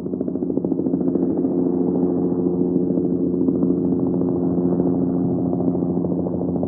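Engine running steadily at an even speed, a low chugging hum with a fast, regular pulse, the kind of tractor engine sound laid over toy-vehicle play.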